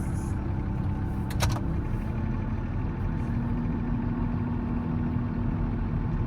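Volvo L70C wheel loader's diesel engine running steadily, with a couple of brief clicks about a second and a half in.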